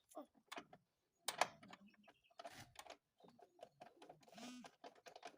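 Faint, irregular clicks and light knocks, a few a second, with no steady rhythm.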